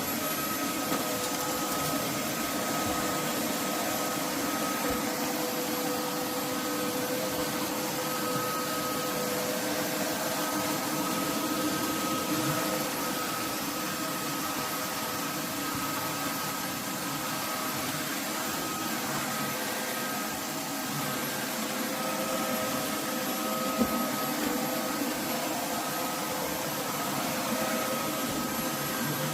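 Roborock F25 GT cordless wet-dry vacuum mop running steadily, a constant motor and suction noise with a fixed high whine over it.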